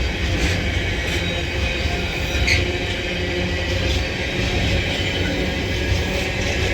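A Freightliner freight train hauled by a Class 66 diesel passing through the station, its wagons rolling by in a steady low rumble with scattered wheel clicks and a brief squeak about two and a half seconds in.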